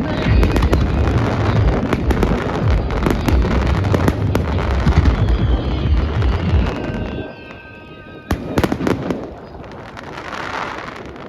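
Aerial fireworks bursting in quick succession, crackling over a deep rumble of booms, dying down about seven seconds in; a few sharp bangs follow a second later.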